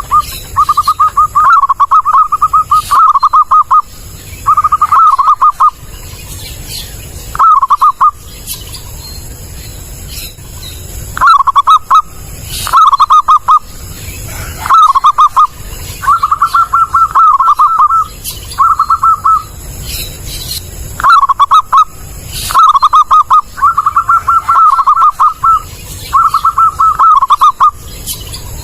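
Zebra dove (perkutut) cooing: short bouts of quick, rippling coos repeated over and over, with pauses of one to three seconds between bouts.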